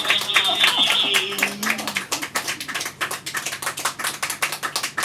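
Small audience clapping at the end of a song, with a high held tone fading out about a second and a half in; the clapping thins toward the end.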